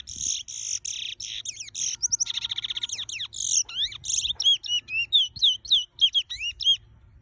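A caged bullfinch singing a fast, continuous run of loud whistled notes. A rapid buzzy trill comes about two seconds in, then a series of clear slurred whistles, and the song stops shortly before the end.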